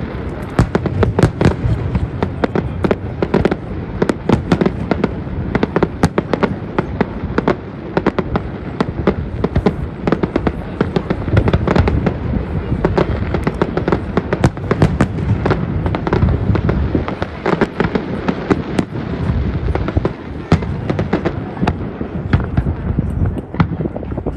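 Fireworks display: a dense, unbroken barrage of bangs in quick succession, over a low rumble.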